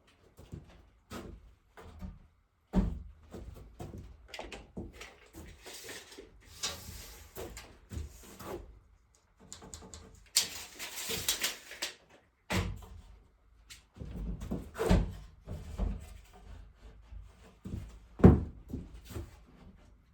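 Irregular wooden knocks, clunks and bumps from work on wooden boards, mixed with stretches of scraping and rustling. The loudest thump comes near the end.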